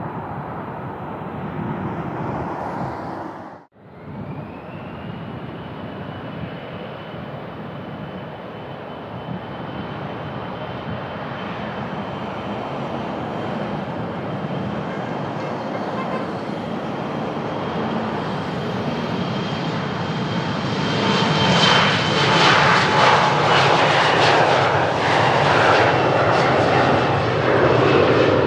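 Airplane engines passing: a steady high whine over a rushing noise that grows louder, strongest in the last several seconds. The sound drops out for an instant about four seconds in, and wind buffets the microphone.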